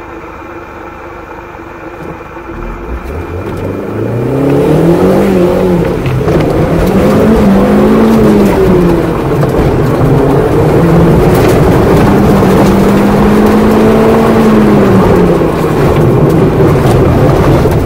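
Car engine heard from inside the car, idling at first and then pulling away under throttle, its pitch rising and falling as the car drives through an autocross course.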